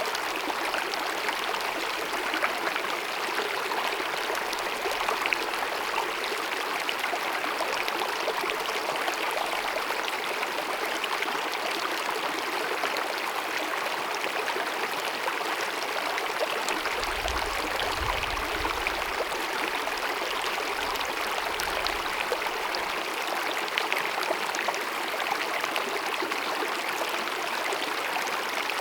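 Small glacier-fed mountain meadow stream babbling and trickling over rocks, a steady even rush of running water.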